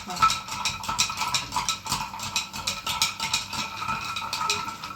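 Dishes and metal utensils clinking and clattering as they are handled, a rapid, uneven run of small clicks over a faint steady hum.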